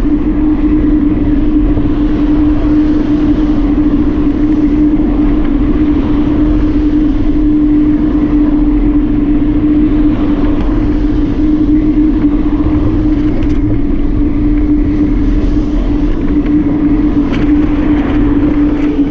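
Steady riding noise on a bike: rushing wind and road noise with a constant droning hum, unchanging in pitch.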